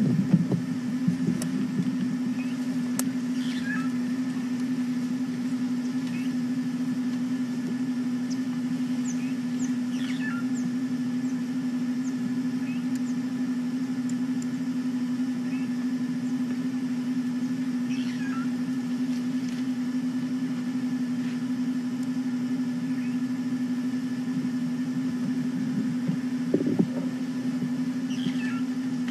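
Safari game-drive vehicle's engine idling steadily, with faint short falling chirps every few seconds.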